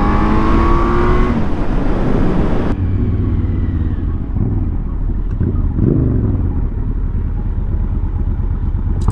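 Kawasaki Z900's inline-four engine accelerating hard in third gear, its note rising steadily for the first second and a half. After that it settles to a lower, wavering run.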